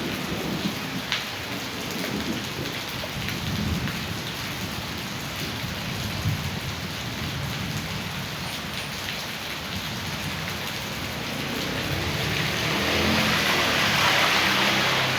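Heavy rain with rushing storm runoff water, with a low rumbling underneath; the rushing grows louder for the last few seconds.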